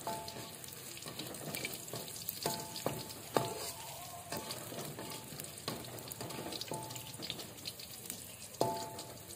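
Food frying in hot oil, sizzling and crackling steadily, with a metal utensil clinking against the pan about eight times, each clink ringing briefly.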